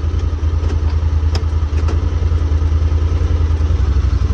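Side-by-side UTV engine idling with a steady low rumble, with a few light clicks and knocks, one sharper about a second and a half in.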